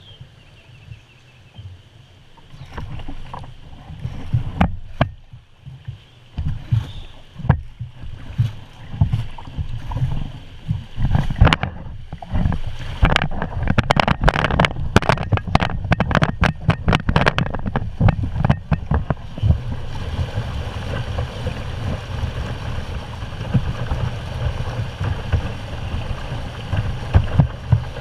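Kayak working through creek rapids: a run of sharp, irregular paddle splashes and knocks for most of the first two-thirds, then a steady rush of moving water with wind on the microphone.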